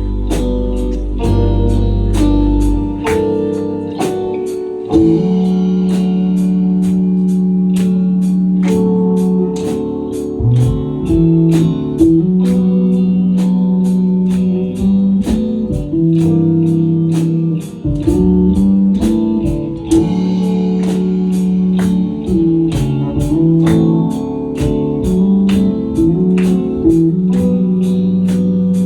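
Band music: a guitar-led passage with a moving bass line under it and a steady beat of about two strokes a second.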